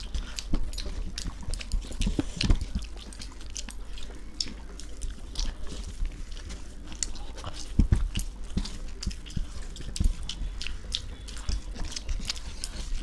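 Close-up eating sounds of chicken biryani: chewing with many short wet mouth smacks and clicks, a few louder ones about two and a half and eight seconds in.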